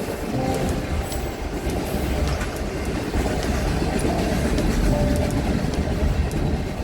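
Train passing: a steady heavy rumble of rail cars, with scattered clicks and brief squealing tones from the wheels on the rails.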